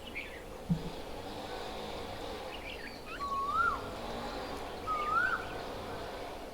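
Birds calling over a steady background hum: two clear whistled notes that each rise and then drop, about a second and a half apart, with a few short, higher chirps around them.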